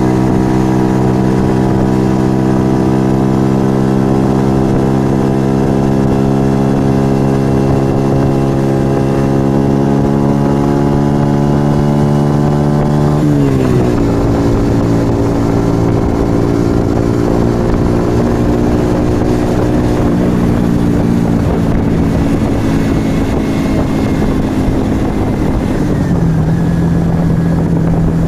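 Yamaha XV125 Virago's small V-twin, breathing through an aftermarket Turbo Kit exhaust, pulls under way with its pitch slowly rising. About halfway through the pitch drops sharply at an upshift, then holds steady, and it drops again near the end.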